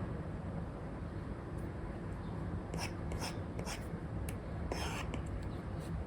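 Apple Pencil nib scratching across an iPad's paper-like screen protector in a handful of quick sketching strokes in the second half, over a steady low background rumble.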